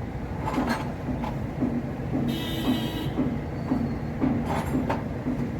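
A Toyota Belta's engine idling roughly with an even, lumpy pulse about three times a second, the sign of a misfire on cylinder 1 (code P0301). A brief higher tone sounds about two seconds in, with a few light clicks.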